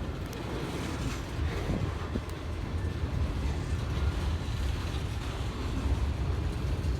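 Long freight train rolling past slowly, a steady low rumble from the moving cars.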